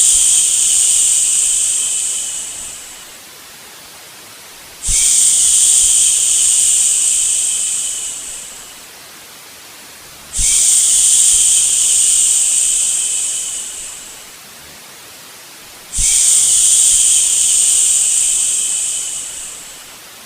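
Long 'shhh' shushing sounds for soothing a baby to sleep, repeating about every five and a half seconds. Each one starts abruptly, holds, then fades away, with a faint steady hiss between.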